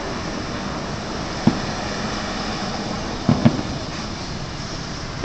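Distant fireworks bursts: one bang about a second and a half in and a quick pair of bangs a little past the middle, over a steady hum of road traffic.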